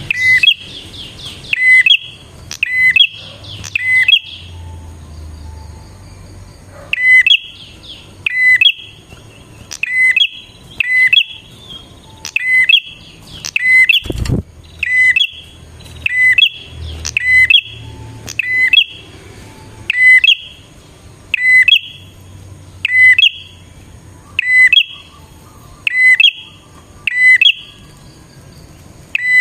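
Prinia (prenjak) calling over and over: loud, sharp two-pitched chips, roughly one a second, with a quicker rattling run in the first few seconds and a pause about five seconds in. A single dull thump about fourteen seconds in.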